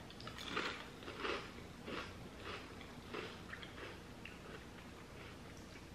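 Mouth crunching on a Terrell's Syracuse Style potato chip: crisp crunches about twice a second, loudest in the first couple of seconds, then fainter as the chip is chewed down.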